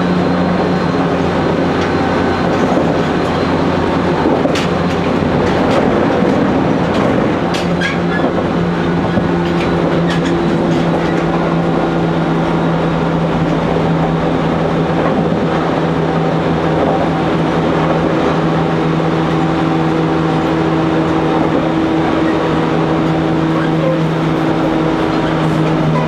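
JR Kyushu 813 series electric train running at speed, heard from the driver's cab: a steady rumble of wheels on rail with a constant motor hum that shifts in pitch about seven seconds in, and a few faint clicks from the rails.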